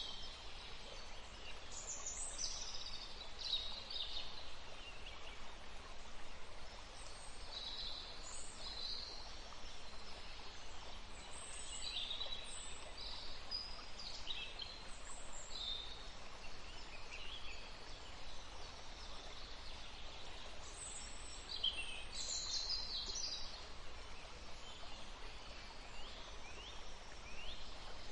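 Songbirds singing and calling, short chirps and trills coming every second or two, over a steady faint hiss of flowing stream water.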